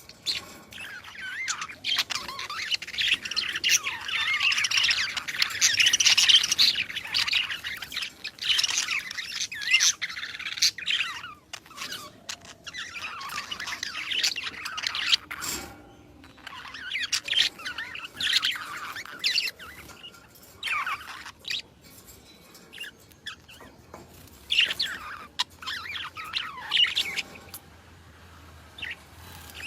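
Several birds chirping and calling in busy high-pitched bursts. The calling is densest over the first ten seconds or so, then comes in shorter spells with quieter gaps between.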